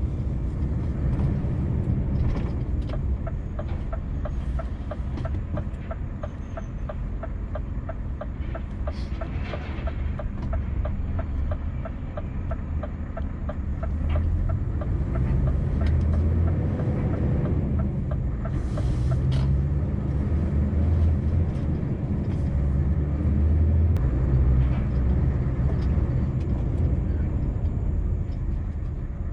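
Scania V8 truck engine running under way, a steady low drone that swells and eases several times as it pulls. A fast, regular ticking runs over it through the first half.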